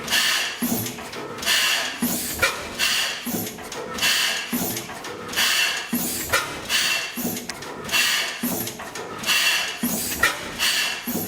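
National Type S 32 HP single-cylinder gas engine running slowly, with a steady rhythm of puffs of air and exhaust noise about twice a second and a few light mechanical clicks.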